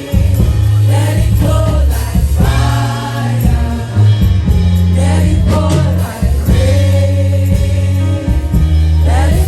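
Gospel music: a choir singing over a band with a strong, steady bass line.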